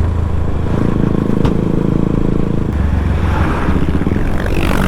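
KTM RC 200's single-cylinder engine running through an aftermarket Akrapovic full-system exhaust while being ridden, its note shifting in pitch a few times as the throttle and revs change.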